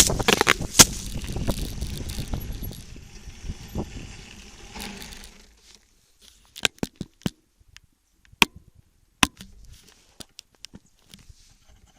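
Wind buffeting the microphone, with rattling and crackling, dying away about five seconds in. After that comes a scatter of single sharp clicks and crunches.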